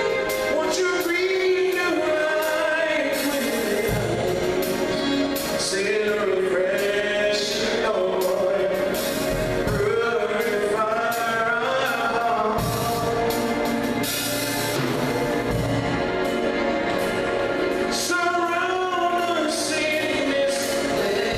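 Gospel music: several voices singing a sustained, wavering melody over band accompaniment, with drum and cymbal hits every few seconds.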